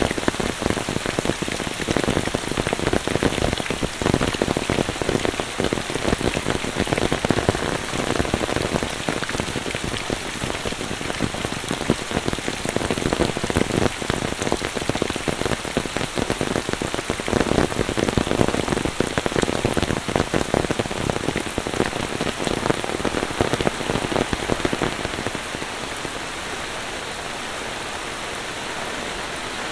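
Monsoon rain falling steadily, with a dense patter of close raindrop hits. About 25 seconds in, the patter drops away and leaves an even rushing hiss.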